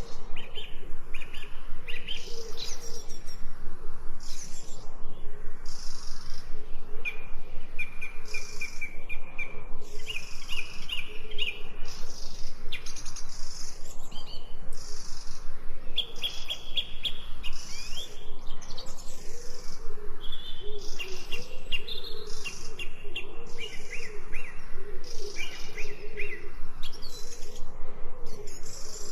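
Several songbirds chirping and trilling at once, with short repeated notes and fast rattling trills, over a lower wavering call.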